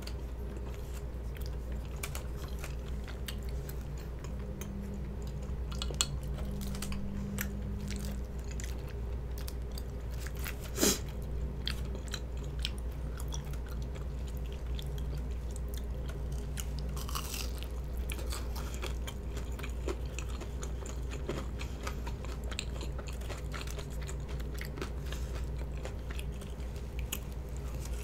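A person chewing soft, chewy rice cakes close to the microphone, with many small wet mouth clicks and one sharper click about eleven seconds in.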